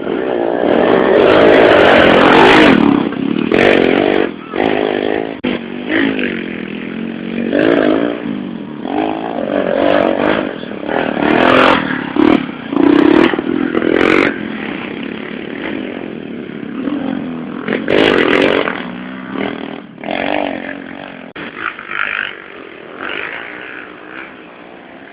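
Several 110cc motorcycles racing on a dirt and sand track, their small engines revving up and down as bikes pass again and again.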